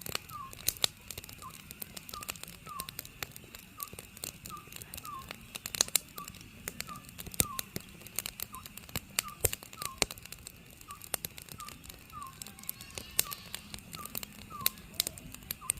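Oriental scops owl calling over and over in short, slurred notes, about one or two a second, over a wood fire crackling with sharp pops.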